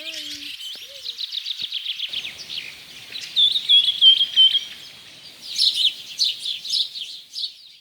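Several songbirds singing and calling together: a phrase of about five short whistled notes is repeated twice, amid fast trills and chatter that grow busier near the end.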